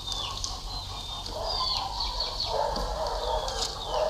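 Birds chirping: many short, high calls that fall in pitch, repeating through the whole stretch.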